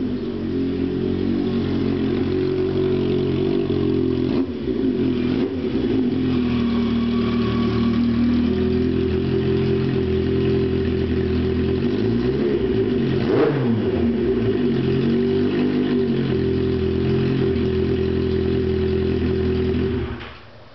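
1982 Yamaha Maxim XJ750's air-cooled inline-four running through EMGO shorty mufflers with the baffles removed. It runs at a steady speed, is revved up and back down about two-thirds of the way in, and cuts off just before the end.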